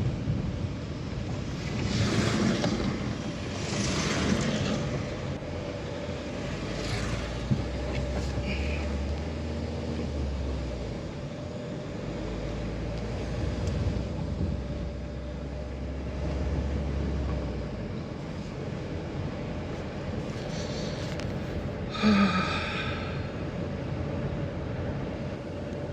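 A vehicle driving along a rough road, engine running with a steady whine and a low hum that swells and eases. About 22 seconds in comes a short, high-pitched sound with several tones.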